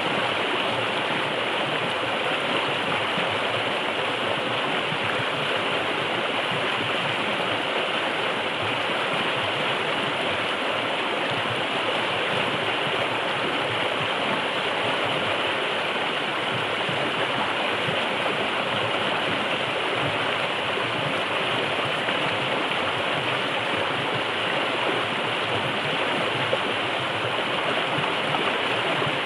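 Forest river flowing, a steady, unbroken rush of water.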